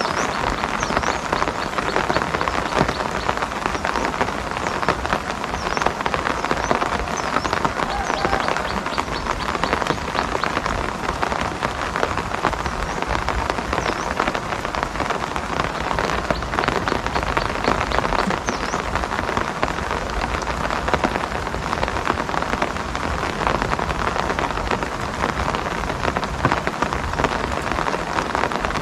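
Steady rain falling, a dense even hiss made up of many close raindrop impacts.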